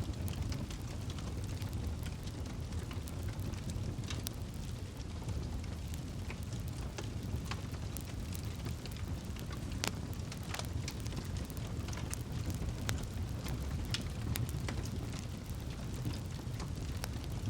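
Campfire crackling: sharp, irregular pops and snaps of burning wood over a steady low rumble of the flames.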